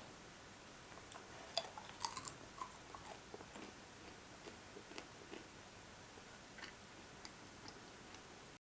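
Quiet room tone with scattered small clicks and taps from objects being handled, bunched together about two seconds in and sparser after that.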